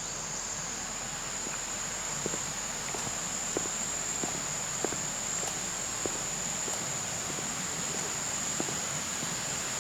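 Insects droning in a steady high-pitched tone over a constant hiss. From about two seconds in, soft footsteps fall roughly every two-thirds of a second.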